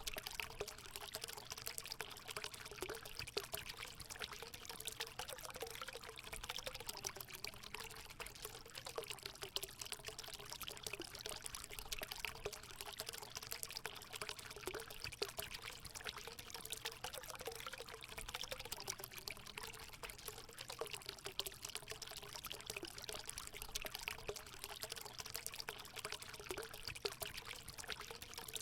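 Water pouring and trickling steadily into a hot spring pool, a continuous splashing with a faint wavering gurgle.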